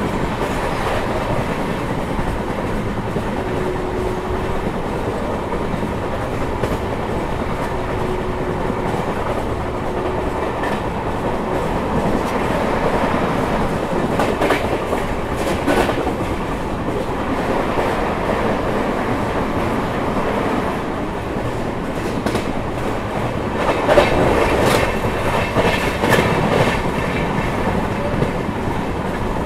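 Track sounds heard on board a moving LHB passenger coach: the steady rumble of steel wheels on rail, with clickety-clack over rail joints. There is a louder burst of clatter about 24 seconds in.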